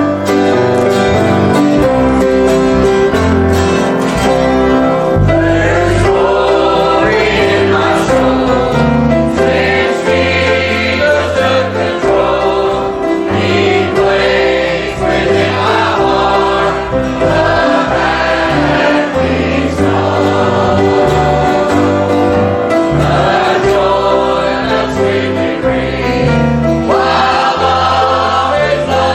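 A choir singing a gospel hymn over keyboard accompaniment with a moving bass line.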